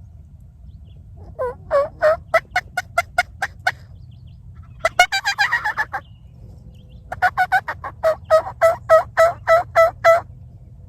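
Turkey calling: a run of short, rhythmic yelps, a rattling gobble about five seconds in, then another run of yelps.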